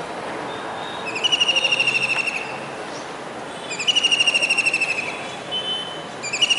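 Kingfisher calling: three loud, rapid rattling trills, each falling slightly in pitch, the third starting near the end.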